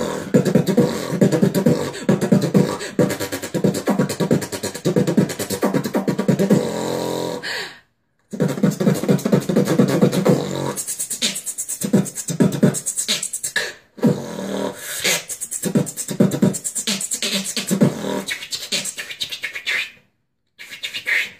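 A person beatboxing: a fast run of mouth-made drum sounds over a hummed bass tone, turning sharper and more clicking with hissy hi-hat sounds from about eleven seconds in. It breaks off briefly at about eight seconds, again near fourteen, and near the end.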